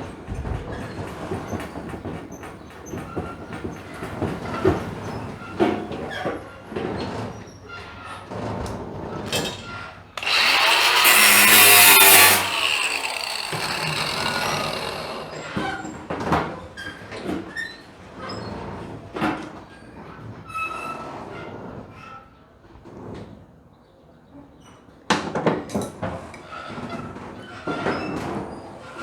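Scattered metal clanks and knocks from work on a pickup truck's bed, with a power tool running loudly for about two seconds near the middle and winding down as it stops.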